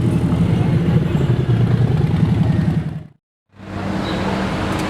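Car engine running with a steady low drone, cut off abruptly about three seconds in; after a half-second gap another car engine comes in.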